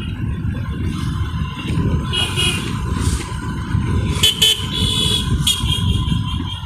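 Road traffic heard from a moving bike: vehicle horns toot several times over a steady low rumble of wind and road noise.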